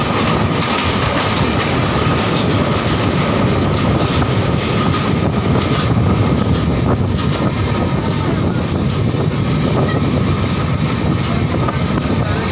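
Passenger train running at speed, heard close through an open coach door: a steady, loud clatter and rumble of wheels on the rails, with a faint steady high tone above it.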